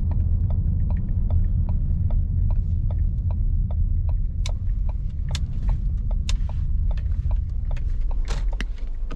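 Ford Escape's 2.0L EcoBoost engine running, heard as a steady low rumble from inside the cabin, with an even ticking about two and a half times a second that gets louder about halfway through.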